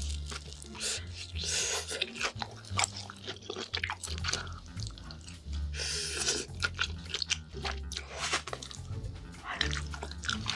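Crunching and chewing of crispy breaded fried cheese balls: repeated sharp crackly bites and chewing sounds, over background music with a steady bass line.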